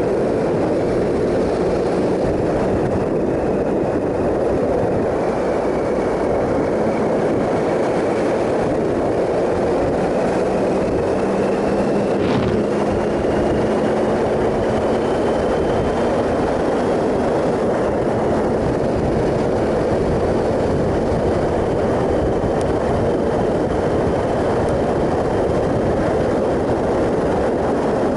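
Triumph Sprint ST 1050's three-cylinder engine running at a steady cruise under a loud, steady rush of wind and road noise, its pitch drifting slowly up and down. A single sharp click sounds about twelve seconds in.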